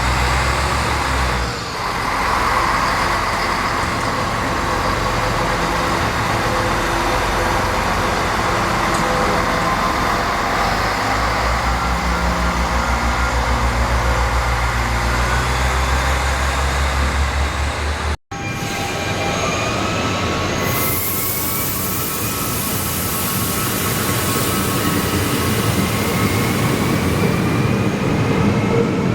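Train sounds at a railway station, with a low steady drone in the first part. An abrupt cut about two-thirds of the way through brings in a different stretch with a loud high hiss.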